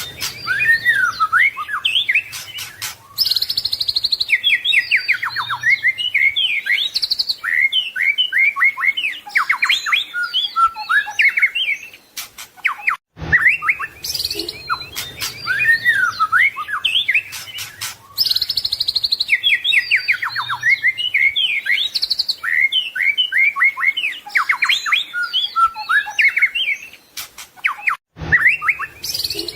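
White-rumped shama (murai batu) singing a rapid, varied song of whistles, trills and chattering notes. The same sequence of phrases repeats about every fifteen seconds, with short breaks near the middle and near the end.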